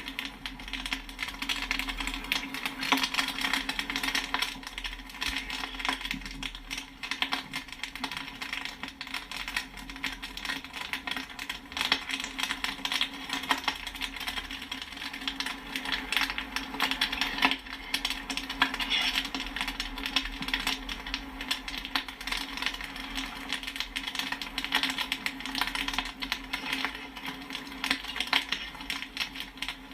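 Popcorn kernels popping continuously: a dense, irregular patter of sharp pops and pings that overlap without a break, over a steady low hum.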